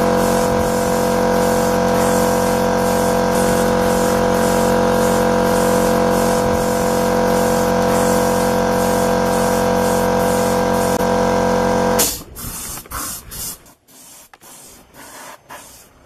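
Paint-spraying equipment running: a steady motor hum with a hiss of spray and a faint regular pulse under it. It cuts off suddenly about twelve seconds in, leaving a few quieter knocks.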